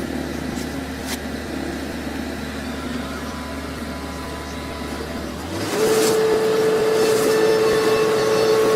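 Heavy machine engine running with a steady low hum. About five and a half seconds in it changes suddenly to a louder sound with a steady high whine over hiss.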